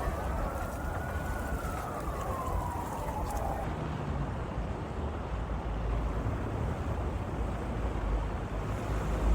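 Outdoor street sound: a steady low rumble of traffic and wind, with a distant siren wail that rises a little and then falls away over the first three seconds or so.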